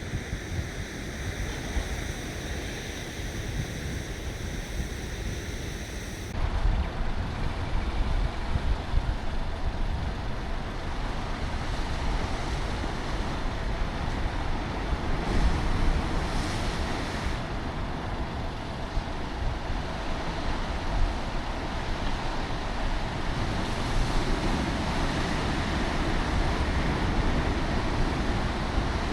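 Wind buffeting the microphone over a steady wash of waves. A few steady high-pitched tones in the first six seconds stop abruptly about six seconds in.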